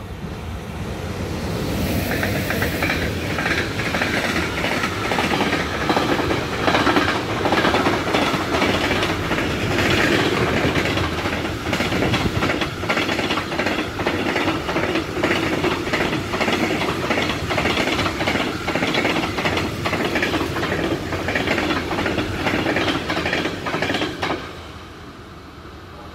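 A long container freight train behind an electric locomotive passes close by. A steady rumble is cut through by rapid clicking of the wagon wheels over the rail joints. The sound builds over the first couple of seconds and drops away suddenly near the end as the last wagons go past.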